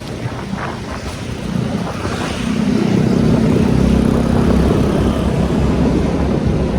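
Motorcycle engine running under way, with wind buffeting the microphone; the engine note swells and grows louder about two seconds in, then eases slightly near the end.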